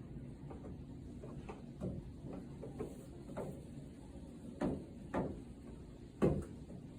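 A series of light knocks and clicks from metal parts being handled during reassembly of a drum clothes dryer's back panel and screws, with three louder knocks in the second half.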